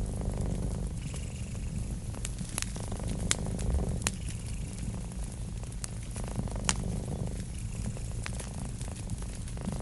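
Cat purring steadily in a close, low rumble, with a wood fire crackling and popping in sharp, scattered snaps.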